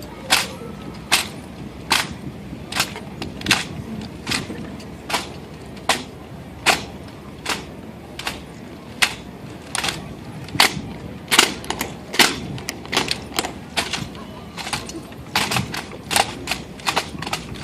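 Sharp cracks of hands slapping and catching M1 Garand rifles in the drill team's weapon exchanges, in a steady rhythm of about one crack every three-quarters of a second. After about ten seconds the cracks come faster and in close pairs.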